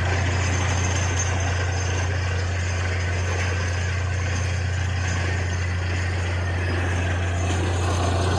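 Borewell drilling rig's machinery running steadily, with a constant low hum under a broad even rush of noise.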